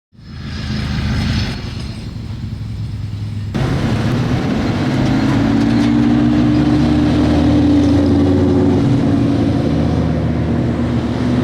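Lamborghini engine running, loud. Its sound changes abruptly about one and a half and three and a half seconds in, then holds a steady note that rises slightly near the end.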